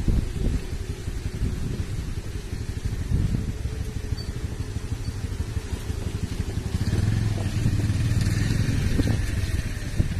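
Motorcycle engine running while on the move, a steady low drone that grows louder and fuller about seven seconds in.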